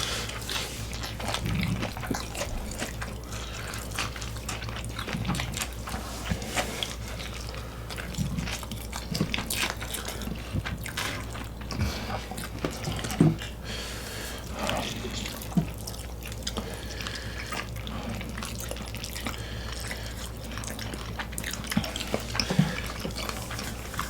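Eating sounds: close-up wet chewing and mouth smacks, with scattered light clicks of utensils or dishes, over a steady low hum.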